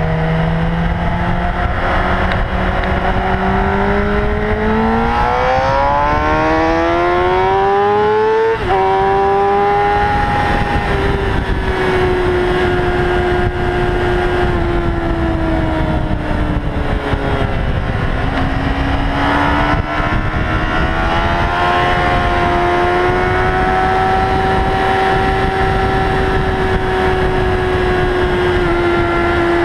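Motorcycle engine under way: its pitch climbs steadily as the bike accelerates, drops sharply about eight and a half seconds in at an upshift, then runs fairly steady at cruising speed, easing down and picking up again around the middle. A constant wind rush runs underneath.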